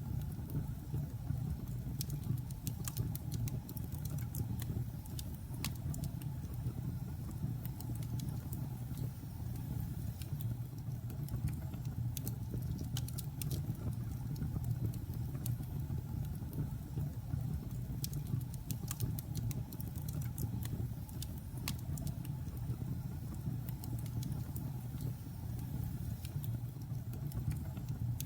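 Logs burning in a fireplace: a steady low rumble of the fire with irregular sharp crackles and pops from the wood.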